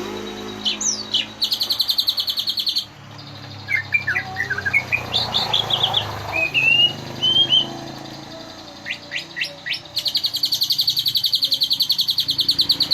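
Cucak ijo (green leafbird) singing a varied song of short chirps and sliding whistles, broken by two long, rapid buzzy trills, one early and one near the end.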